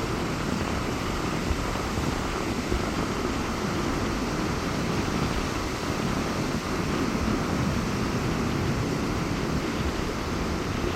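Sea surf breaking steadily on a beach in strong onshore wind, with wind rumbling on the microphone.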